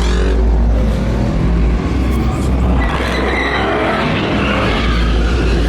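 Car engine revving hard while its tyres squeal, as in a burnout or donut, with the squeal strongest from about three seconds in.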